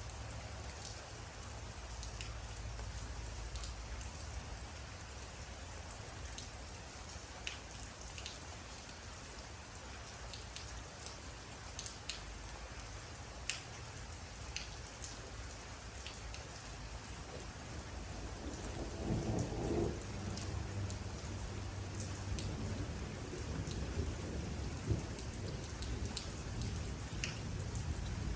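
Steady rain falling, with individual drops striking close by as sharp ticks over a constant low rumble. A deeper rumble swells up about two-thirds of the way through.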